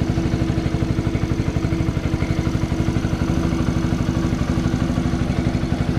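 Kawasaki KLX110 pit bike's single-cylinder four-stroke engine idling steadily, run just after an oil and filter change to push the fresh oil through the filter.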